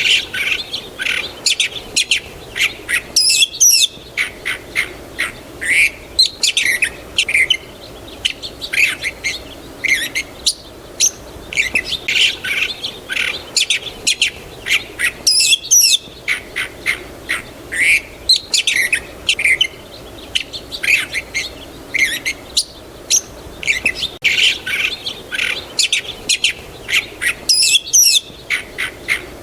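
Several songbirds chirping and singing, with quick short notes and trills overlapping, over a low steady background hiss. The calls come in busy bursts with brief lulls about every twelve seconds.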